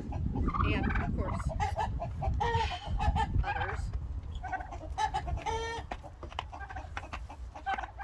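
Domestic turkeys calling and clucking, a flock worked up by being caught for banding. A few longer calls come about five to six seconds in, over a low rumble of handling noise in the first half.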